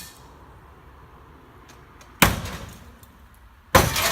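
Two heavy impacts during house demolition, about a second and a half apart; the second sets off a clattering crash of breaking glass and falling debris.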